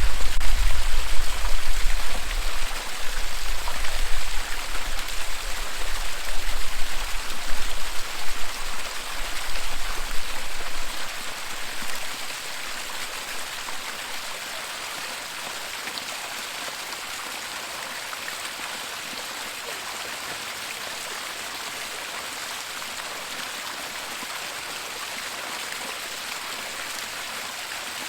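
Waterfall: a steady hiss of rushing, splashing water. For the first twelve seconds or so it sits over a deep, uneven low rumble, which then drops away and leaves the water hiss steady and quieter.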